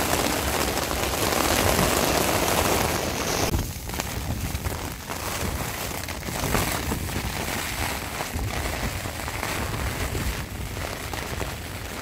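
Rain falling on a nylon tent fly, heard from inside the tent: a dense hiss that drops off suddenly about three and a half seconds in. After that, separate drop hits stand out over a low rumble.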